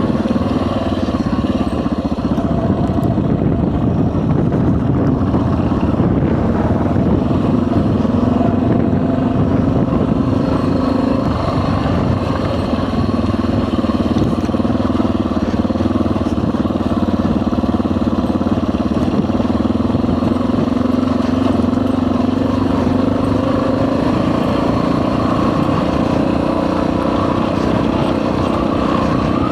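Dual-sport motorcycle engine running steadily while being ridden, its pitch easing gently up and down with the throttle.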